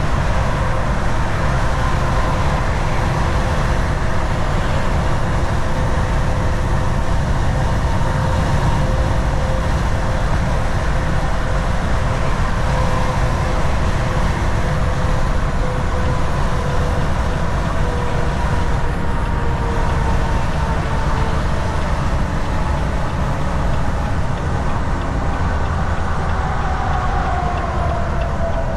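Volvo VNL 760 semi truck cruising on the highway: a steady rumble of engine and tyre noise with a faint whine, whose pitch sinks slightly near the end.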